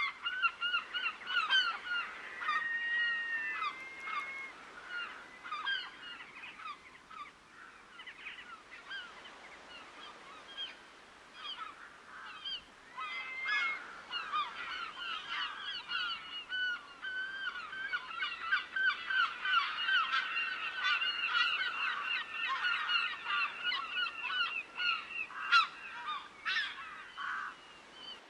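A flock of waterbirds calling, with many short, overlapping honking calls. The calling thins out for several seconds, builds back into a dense chorus, and stops shortly before the end.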